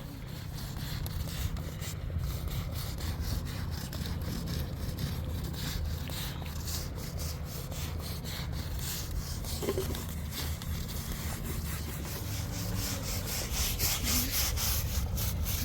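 Washing being scrubbed by hand: repeated rubbing strokes that grow louder near the end, over a steady low rumble.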